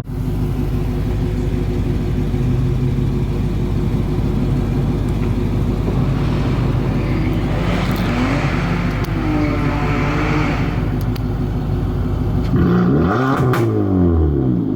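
Car engine running while driving, heard from inside the cabin, as a steady drone whose pitch rises and falls as the engine speed changes. The pitch changes most sharply near the end, and there are a couple of sharp clicks.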